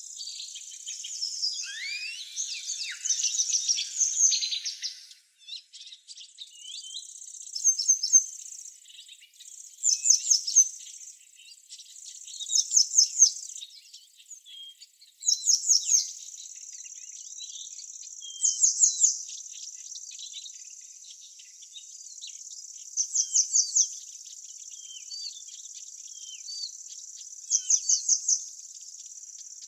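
Birds singing over a steady high insect drone. For the first few seconds the song is varied. After that, a short burst of four or five quick, high notes repeats every three to four seconds.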